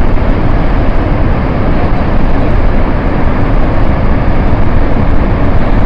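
Glacier-burst flash flood surging down a river valley: a loud, steady rushing noise of floodwater.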